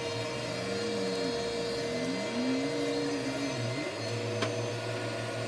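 Eureka Whirlwind Plus upright vacuum cleaner running on carpet: a steady motor whine with a lower tone that rises and falls every second or so, and a single click about four and a half seconds in.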